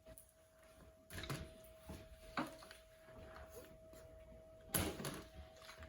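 A few short knocks and mouth noises of someone eating a honey bun off a plate without using their hands. The loudest knock comes about five seconds in, over a faint steady hum.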